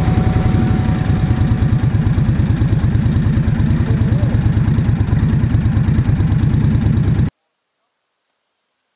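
Cruiser motorcycle engine running at low street speed, a steady low pulsing beat. It cuts off abruptly about seven seconds in.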